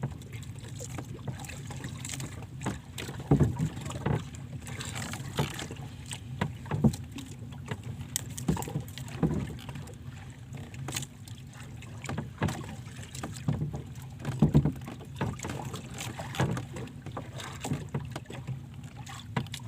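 Water lapping and knocking against a small boat's hull, irregular short slaps every second or two over a low, steady rumble of wind on the microphone.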